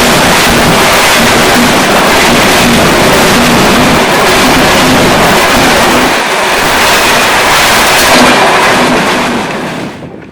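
Nilsagar Express passenger train running by on the rails: a loud, steady rush of wheels and coaches that fades away sharply near the end.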